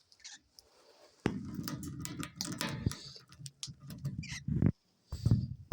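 Two cockatiels pecking and nibbling at a hand-held treat: quick small clicks and rustling, which grow louder and denser a bit over a second in.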